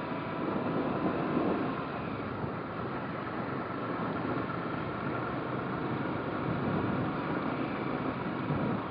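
Motorcycle engine running steadily under way, mixed with road and wind noise.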